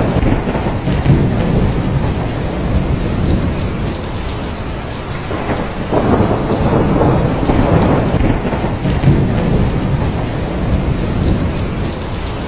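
Heavy rain falling steadily, with deep rolling thunder that swells and fades, building again about halfway through.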